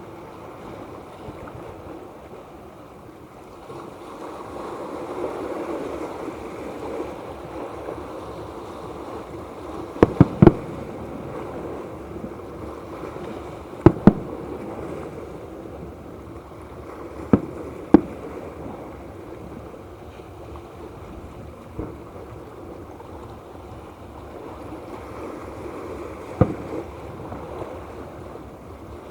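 Fireworks shells bursting with sharp bangs: three in quick succession about ten seconds in, then pairs and single bangs every few seconds. Under them runs a steady rushing background noise.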